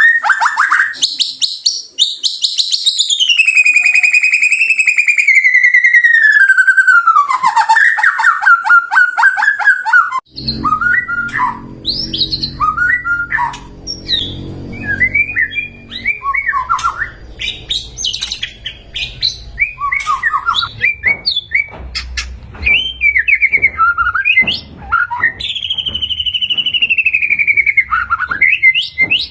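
White-rumped shama (murai batu) singing: a long rapid trill sliding steadily down in pitch over several seconds, then a run of varied short whistled phrases over a faint low background noise, ending with a drawn-out whistle falling in pitch.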